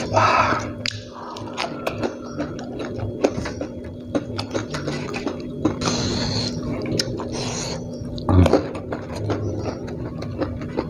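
Close-up chewing of fried chicken and rice eaten by hand, with many small wet clicks from the mouth and fingers and a few breathy hisses.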